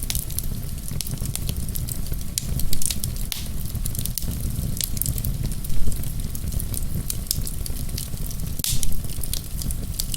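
Wood fire crackling: a dense run of small snaps and pops over a low steady rumble, with a few louder pops about three seconds apart.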